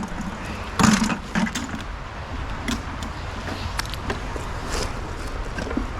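Rusty scrap metal knocking and clanking as pieces are picked up and handled, several separate knocks a second or so apart over a steady low rumble.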